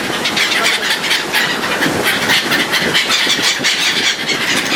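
Steady, loud noise aboard a ferry under way: the ship's engine and wind on the microphone, with a dense crackling texture.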